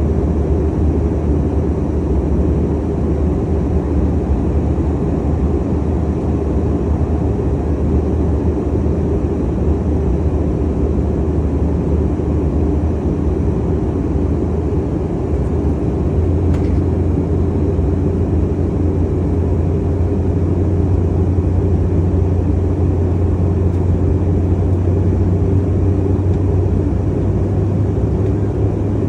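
Steady airliner cabin noise: a constant low rumble of engines and airflow heard from inside the plane, growing slightly deeper and louder about halfway through.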